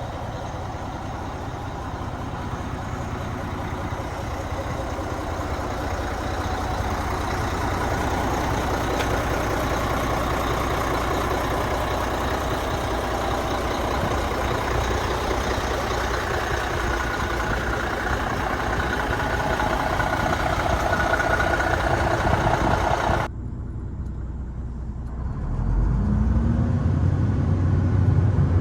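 ERF ECT XXL tractor unit's diesel engine running at idle. About 23 seconds in the sound cuts off suddenly to a quieter background, and a few seconds later a deeper, louder engine rumble comes in.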